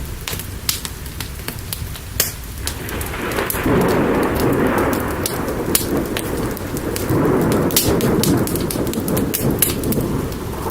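Steady rain with thunder rolling in about three seconds in: a long, deep rumble that swells, eases and swells again. Sharp crackling pops run throughout.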